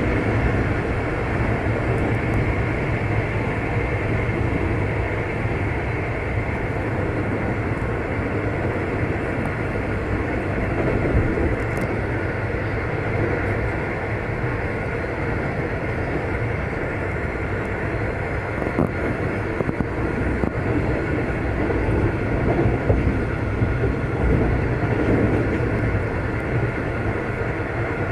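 V/Line locomotive-hauled passenger train running at speed: a steady rumble of wheels on rail, with a few faint clicks along the way.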